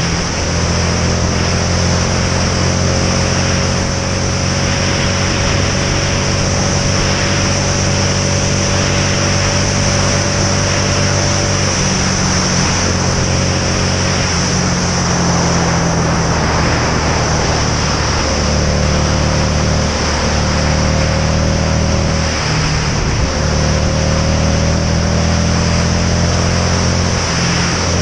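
Motorcycle engine running steadily while riding, its pitch drifting slightly a few times, under a constant rush of wind noise.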